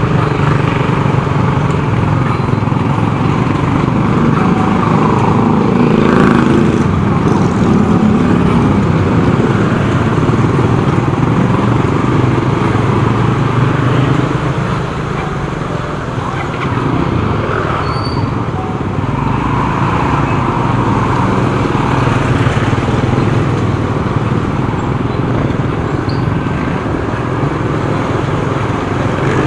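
Motorcycle engine running at steady road speed with road and traffic noise around it, heard from the rider's own bike.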